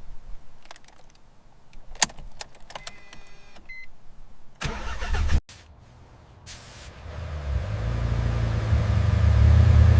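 Mitsubishi Lancer Evolution's turbocharged 4G63 four-cylinder being started: a few clicks, a short burst of cranking about five seconds in that cuts off suddenly, then the engine catches and runs, growing steadily louder toward the end.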